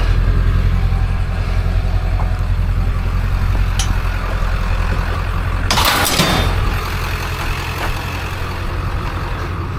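Vehicle engine running with a steady low drone; a brief rushing noise passes about six seconds in.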